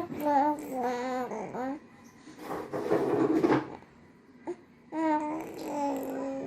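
A baby babbling in a run of high, wavering voiced sounds, with a raspy, breathy stretch about two and a half seconds in.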